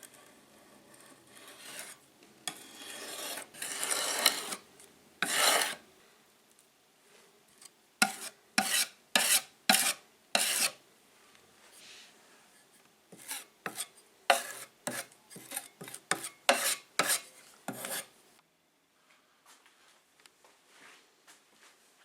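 Hand-sanding plywood with sandpaper to smooth puttied gaps before painting: a run of rasping back-and-forth strokes, a few long ones at first, then quicker ones about two a second, stopping near the end.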